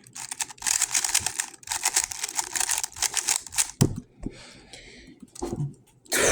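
Rapid plastic clicking and clacking of a GAN 11 M Pro magnetic speed cube being turned fast during a timed solve. The turning stops about four seconds in with a dull thump, followed by quieter handling and another thump.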